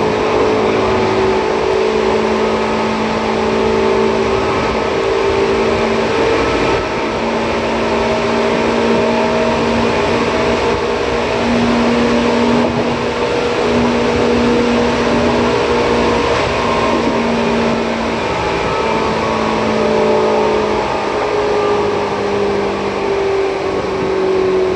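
Seibu 2000 series electric train running at speed, heard from inside the car: a steady rumble of wheels on rail under a humming whine from the motors and gears, which dips slightly in pitch near the end.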